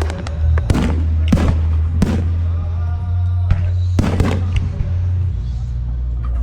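Fireworks shells bursting in quick succession, with about a dozen sharp bangs a fraction of a second to a second apart.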